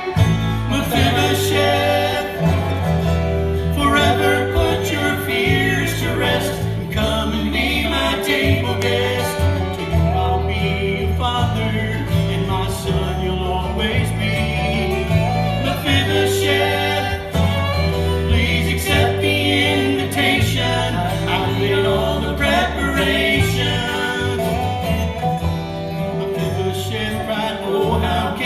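Bluegrass gospel band playing, with banjo and fiddle over rhythm guitar and a steady bass line.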